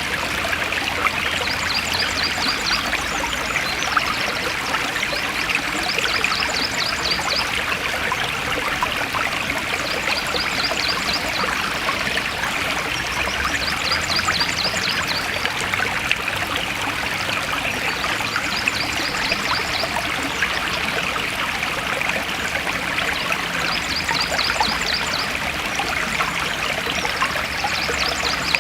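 Forest stream flowing steadily, with a high, quick trill of short notes repeating about every four seconds.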